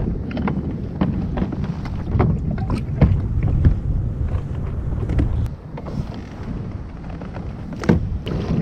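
Wind buffeting the microphone over water sounds from a kayak under way: irregular small splashes and light knocks. The wind rumble eases about halfway through.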